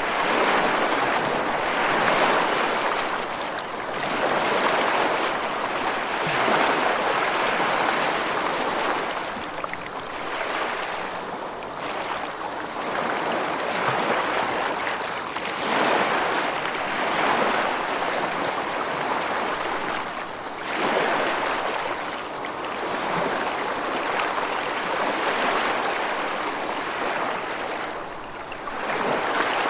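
Rushing water, a steady wash that swells and eases every few seconds.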